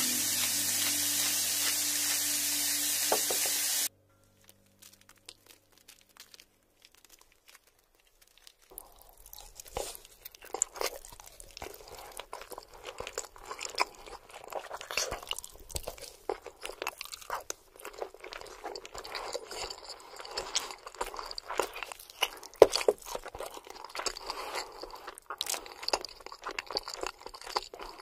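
Ground beef sizzling in a hot pan, cutting off suddenly about four seconds in. After a few seconds of near silence, close-miked chewing and biting of lasagna takes over, with many small sharp clicks.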